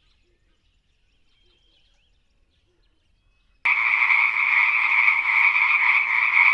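Near silence for about three and a half seconds, then a frog's call starts suddenly and carries on steadily, concentrated in two high pitch bands.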